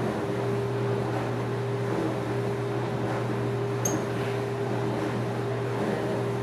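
A steady machine hum with hiss, holding two low tones, and one brief sharp click about four seconds in.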